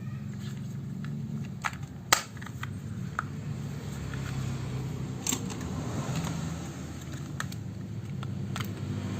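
Hard plastic toy parts clicking and snapping as a transforming robot toy is handled, a few sharp clicks over a low steady hum.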